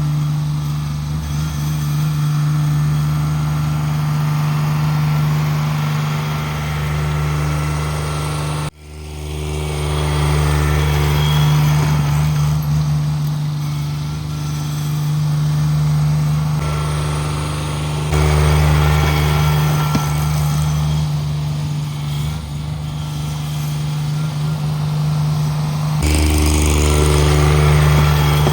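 Cub Cadet 1782 garden tractor engine running steadily under load, its low hum rising and easing a little. It cuts out abruptly for an instant about nine seconds in.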